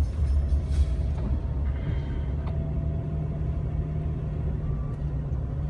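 Jeep Wrangler TJ driving on a snowy road, heard from inside the cabin: a steady low engine and road rumble, with a low hum that settles in about two seconds in.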